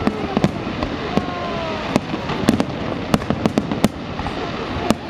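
Fireworks display: a rapid, irregular string of sharp bangs and cracks from bursting shells over a continuous rumble.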